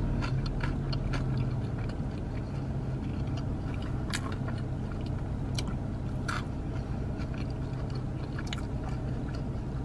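A person chewing a mouthful of burger, with scattered wet mouth clicks and smacks. A steady low hum runs underneath.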